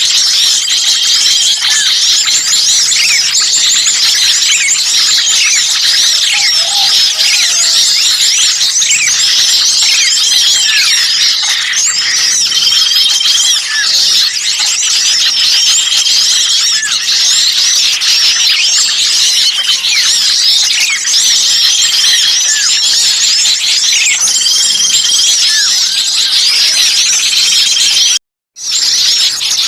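Bird-lure recording of many small birds chirping and calling agitatedly over one another in a dense, unbroken chorus, with a clear steady whistled note about a second long returning every few seconds. The sound cuts out completely for a moment near the end.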